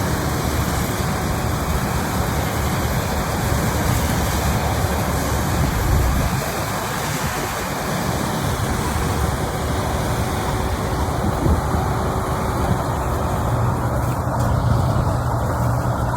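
Engine of a rice-harvesting machine running steadily, with a constant low rumble under a wash of noise.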